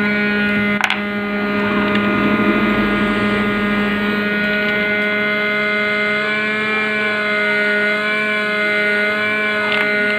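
Hot-air rework gun blowing at full speed, a steady whir, used to desolder a burnt-out sound IC from a DTH receiver board. A sharp click about a second in.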